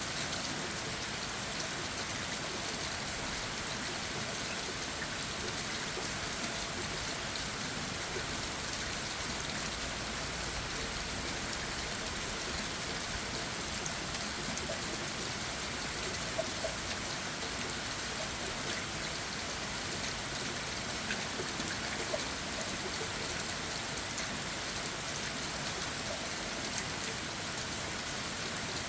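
Steady rain falling on leaves and the forest floor, a constant hiss with scattered drips and taps.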